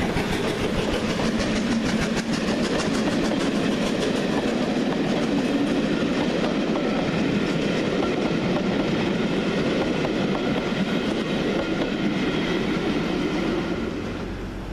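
A train passing through the station, its wheels clicking quickly over the rail joints with a steady rumble; the clicking thins out and the sound fades near the end.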